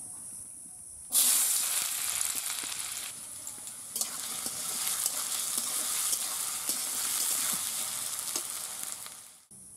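Diced potatoes sizzling in hot oil in an aluminium wok, starting suddenly about a second in, while a metal spatula stirs and scrapes them against the pan. The sizzle cuts off abruptly just before the end.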